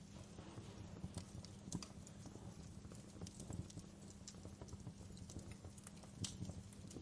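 Wood fire crackling in a fireplace: irregular pops and snaps over a low, steady rumble of burning. The sharpest snaps come about a second in, just before two seconds and a little after six seconds.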